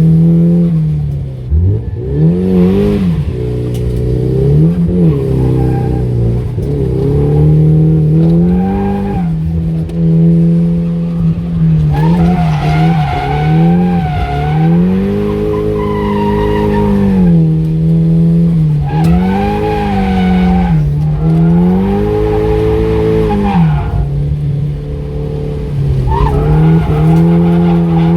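Nissan S15 Silvia's four-cylinder engine revving up and dropping back over and over through a drift, holding high revs for a second or two at a time, with tyres squealing.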